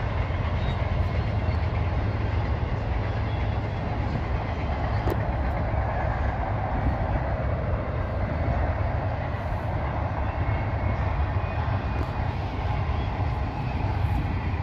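A Union Pacific train rolling past with a steady low rumble.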